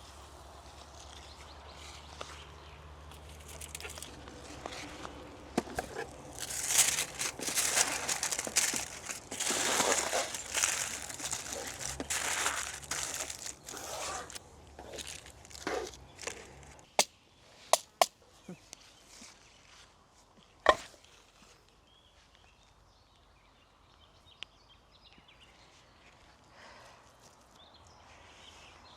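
Rustling and crinkling for about ten seconds, then three sharp clicks or knocks, then quiet.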